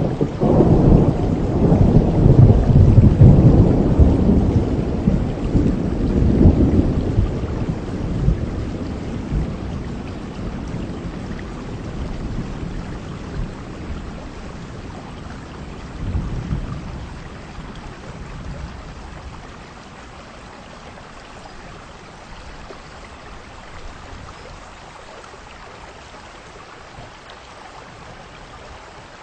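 Heavy rain falling steadily with thunder: a long, loud roll of thunder at the start fades away over several seconds, a smaller rumble comes about sixteen seconds in, and the rain carries on more quietly afterwards.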